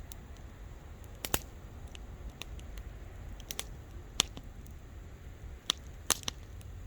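A wood fire crackling: a handful of sharp pops at irregular intervals, the loudest about four seconds in, over a steady low rumble.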